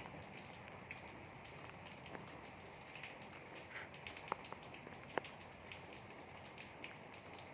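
Steady, faint rain falling, with scattered individual drops ticking through it and two sharper drips about halfway through.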